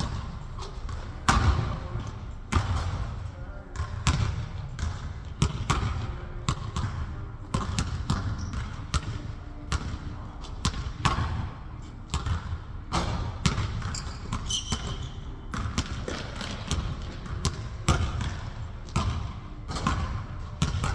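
Basketball bouncing on a court, being dribbled and shot, in an irregular run of thuds about one or two a second. A brief high squeak sounds about fourteen seconds in.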